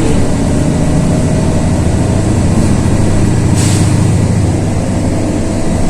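LiAZ 6213.22 articulated diesel city bus running at speed, heard from inside the cabin as a steady low engine drone with road noise. A short hiss comes about three and a half seconds in.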